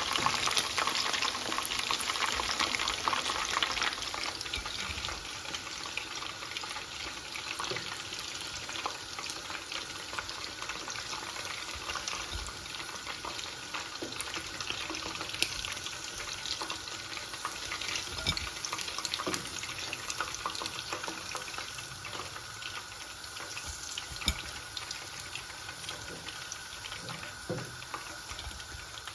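Coated boneless chicken pieces frying in hot oil: a steady sizzle and crackle, louder for the first few seconds, with a few sharp taps.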